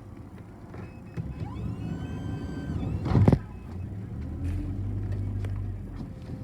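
City bus heard from on board as it pulls away: a drivetrain whine rises in pitch, then holds steady over a low engine rumble. About three seconds in there is a short, loud burst of noise.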